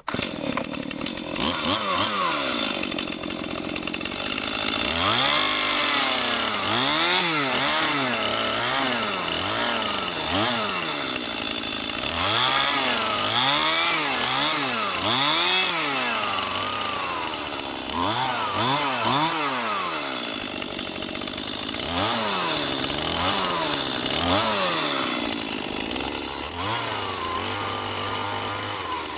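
Chainsaw cutting a small notch into an oak bird-box piece, its engine pitch rising and falling over and over, about once a second, as the throttle is worked.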